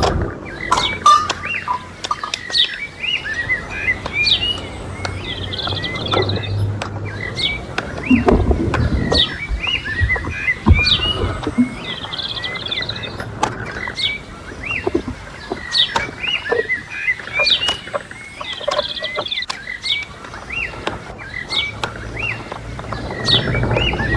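Small birds chirping over and over, with scattered sharp knocks and clicks.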